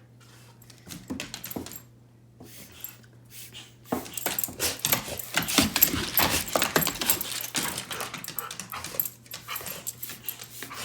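A dog sneezing in rapid fits, loudest in a dense run from about four to eight seconds in, with a few quieter sneezes before and after. A faint steady low hum runs underneath.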